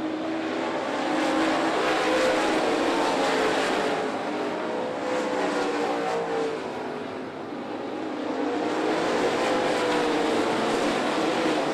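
A pack of dirt late model race cars' V8 engines running at speed around the track. The sound swells as the cars go by, about a second in and again about nine seconds in, with a lull near seven seconds.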